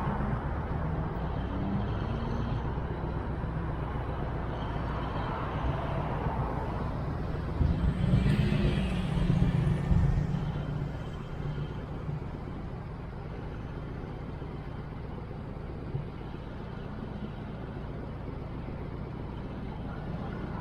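Road traffic with a steady low rumble; a vehicle passes close by about eight seconds in, louder for roughly three seconds, then the level settles lower.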